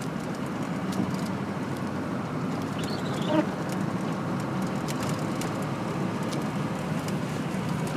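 Steady engine and road noise heard from inside a vehicle's cab while it drives through snow, with one short sound about three seconds in that falls quickly in pitch.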